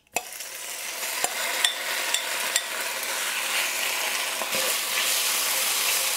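Marinated sliced chicken hitting hot oil in a wok, bursting into a sizzle that then holds steady. A few sharp clicks of a metal spoon against the bowl and pan come in the first few seconds as the chicken is scraped in and spread out.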